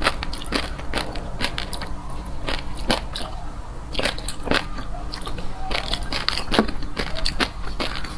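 Fish roe eggs crunching and popping between the teeth as a mouthful is chewed: a quick, irregular run of sharp little clicks.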